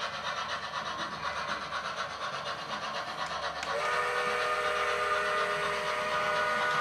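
Sound-fitted OO gauge model American steam locomotive playing its steam sounds through its speaker. A little over halfway in, its chime whistle starts and holds steady as one chord of several notes.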